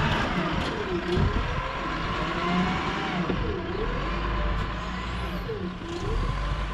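Bobcat 753 skid-steer loader running, a steady low engine rumble with a whine that dips and climbs in pitch several times as the machine is worked.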